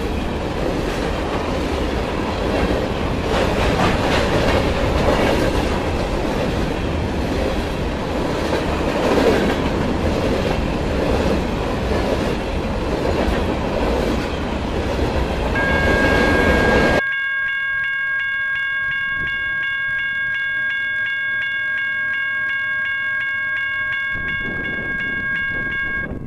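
A train rolling past, a steady rumble with wheels clicking over the rail joints, which cuts off abruptly about two-thirds of the way through. A steady, high tone made of several pitches starts just before the cut and carries on to the end.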